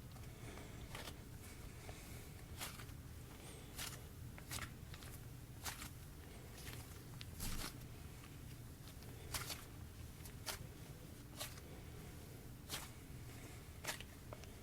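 Sprinkle-filled slime being squeezed and stretched by hand, giving faint sticky pops and clicks at irregular intervals, about one every second or so.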